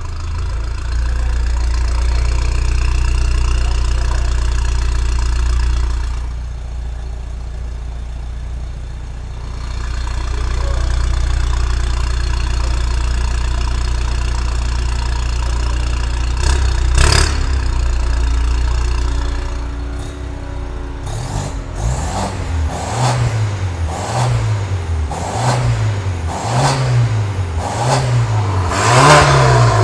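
Turbocharged BMW F10 engine heard through a new full stainless-steel exhaust with custom downpipe and valved (Valvetronic) mufflers. It idles steadily for about twenty seconds, then is revved in quick repeated blips, about one a second, getting louder toward the end.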